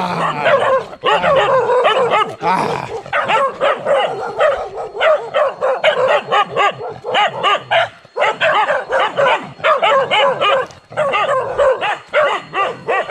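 Several dogs barking and yapping in rapid, almost unbroken volleys.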